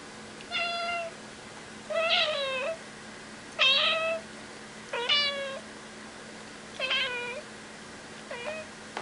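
Domestic cat meowing repeatedly: six short meows about a second and a half apart, the last one fainter.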